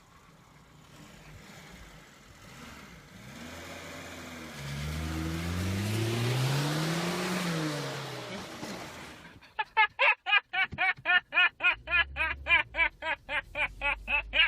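A car engine revs, its pitch rising and then falling as the sound swells over several seconds. About nine and a half seconds in it cuts off suddenly into a fast run of short, loud pitched sounds, about four or five a second.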